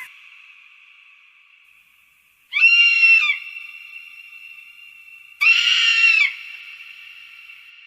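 Eagle calls: two high, piercing screams, each just under a second and about three seconds apart, each trailing off in a faint lingering echo.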